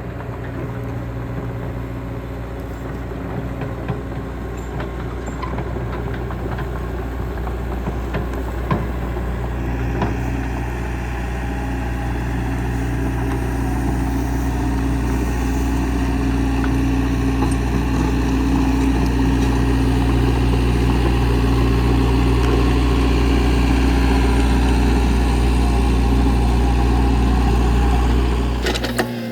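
Komatsu excavator's diesel engine running steadily, building a little louder about a third of the way in, then its sound cuts off abruptly near the end.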